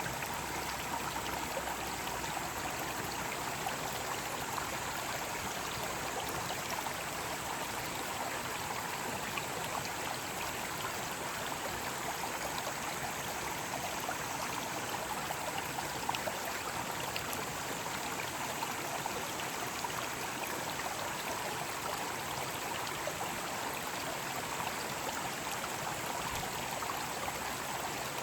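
Mountain stream running steadily over rocks, a constant rush of water with small splashes and drips scattered through it.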